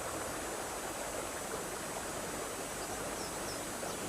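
Shallow stream running over stones, a steady rushing babble.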